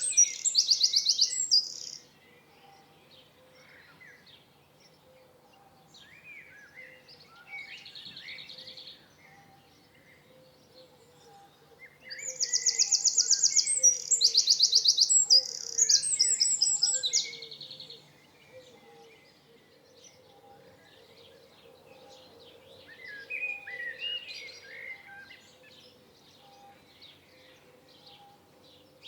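Songbird singing loud phrases of rapid, high trilled notes, once near the start and again for several seconds about twelve seconds in, with softer twittering calls in between.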